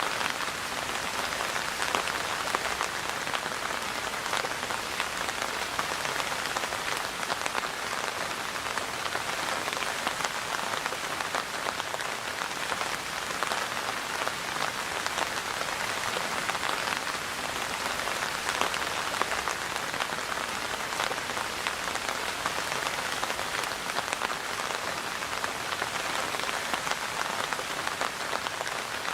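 Steady rain falling on a surface, a dense even patter of many drops with no change in strength.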